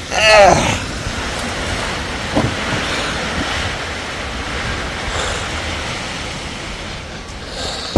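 Steady wash of heavy rain and wind, with a short pitched cry just after the start.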